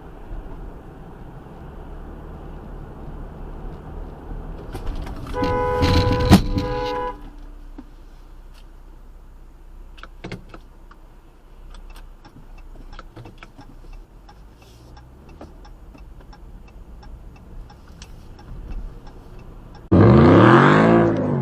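Steady road noise of a car driving, broken by a car horn blaring for about a second and a half, about five seconds in, with a sharp bang near its end. Near the end a sudden loud sound with sliding pitch sets in.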